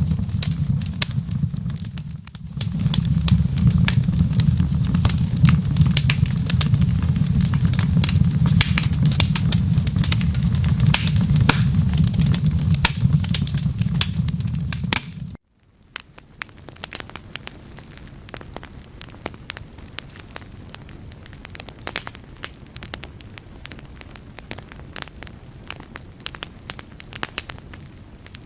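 Wood fire crackling, with a dense scatter of pops and snaps over a deep low rumble. About fifteen seconds in, the rumble cuts off suddenly and the crackling carries on more quietly.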